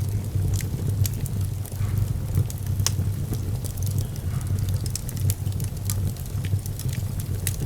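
Fire in a fireplace crackling, with irregular sharp pops and snaps over a low steady rumble; one louder snap about three seconds in.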